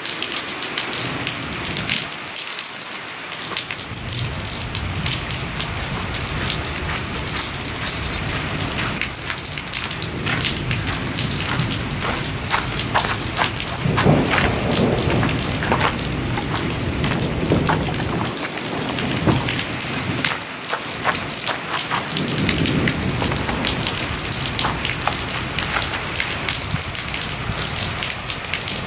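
Steady rain falling, with many individual drops ticking close by, while rolling thunder rumbles underneath, loudest about halfway through and swelling again later.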